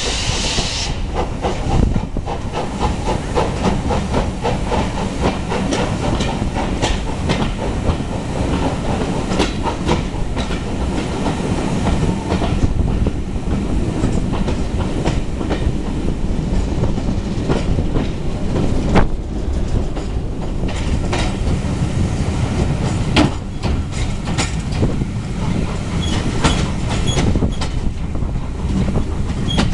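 Passenger train running along the line, heard from on board: a steady rumble of the wheels on the rails with a continual clickety-clack of wheel knocks over rail joints. There is a brief hiss in the first second.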